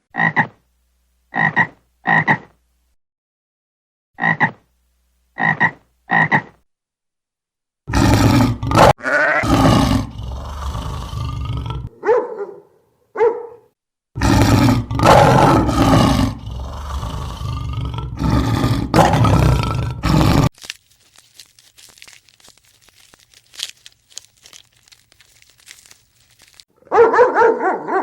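Farm animals calling in separate bursts. First come six short, clipped calls, then two long stretches of loud, rough calling, and a fainter stretch follows before a new loud call near the end.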